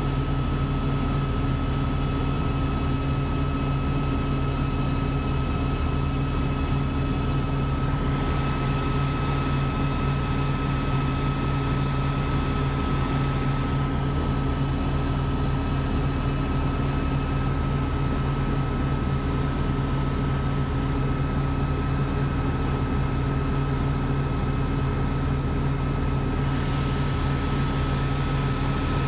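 Helicopter in flight heard from inside the cabin: a steady rotor and engine drone with a constant high whine. A hiss swells about eight seconds in and again near the end.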